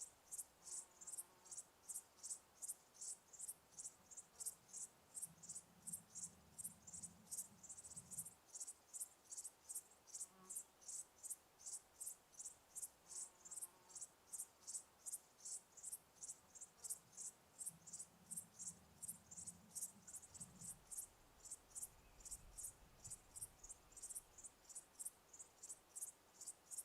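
Crickets chirping in a steady, even rhythm, about three high-pitched chirps a second.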